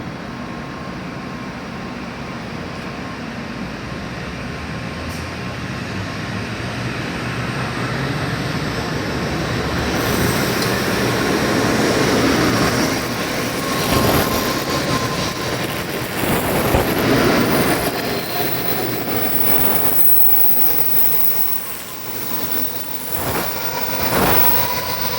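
Shinkansen train running on the line, a steady rushing noise that swells from about ten seconds in, is loudest in the middle with a few brief surges, and eases back near the end.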